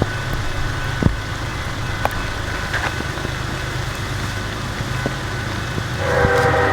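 A low, steady diesel engine rumble with a few faint clicks, then about six seconds in a Norfolk Southern freight locomotive's multi-note air horn starts sounding for a grade crossing.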